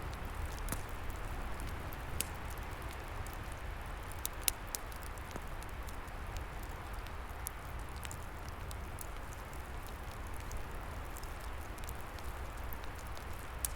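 Wood fire crackling, with irregular sharp pops and snaps, the strongest about four and a half seconds in, over a steady low rumble of wind.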